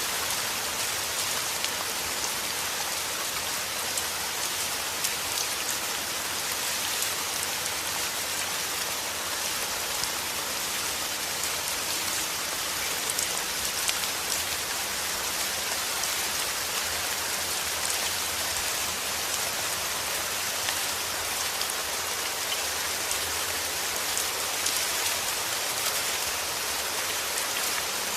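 Steady heavy rain falling on a surface, a dense even patter with many fine drop ticks.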